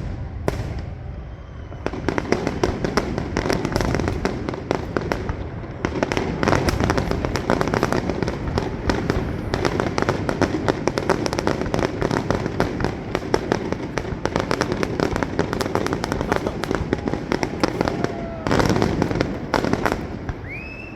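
Fireworks going off in a dense barrage: many rapid bangs and crackles over deep booms, with a louder burst near the end.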